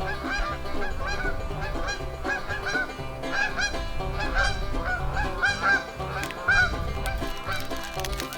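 A flock of geese honking: many short, arched calls overlapping and repeating, over background bluegrass music with banjo.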